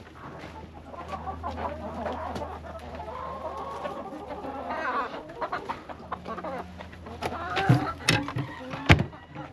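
Domestic hens clucking with drawn-out, wavering calls. A few sharp knocks or clicks come near the end and are the loudest sounds.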